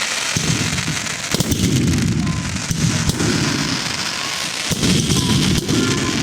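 Fireworks going off without a pause: a rolling rumble of many overlapping bangs and sharp crackles, with a few short faint whistles.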